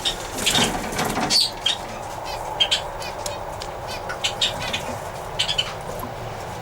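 Small aviary birds chirping repeatedly, with a flurry of wing flapping about half a second to a second and a half in.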